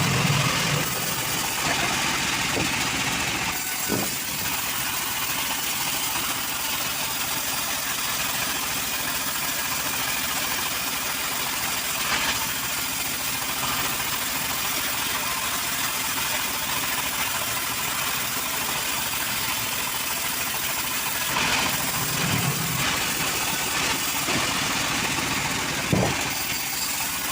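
Stihl MS 381 chainsaw running steadily at high speed, with a few short knocks now and then.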